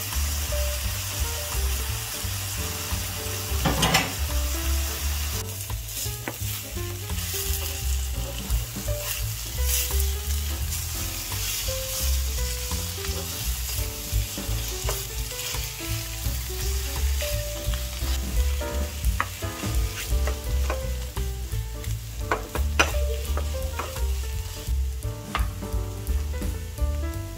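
Egg, shredded carrot and onion sizzling in a nonstick frying pan while a spatula stirs and breaks up the setting egg, with frequent short scrapes and taps of the spatula against the pan.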